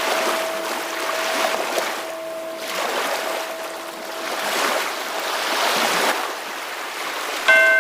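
Ocean waves washing in and ebbing in slow swells, with the lingering tone of a bell or chime ringing over them. Near the end a bell is struck again.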